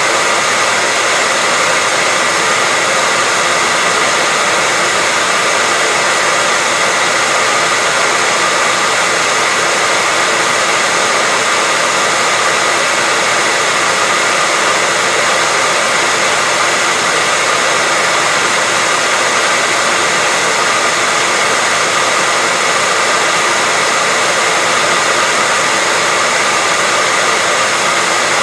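Hair dryer running steadily: a constant, unchanging hiss of blown air with a faint steady whine, and little low rumble.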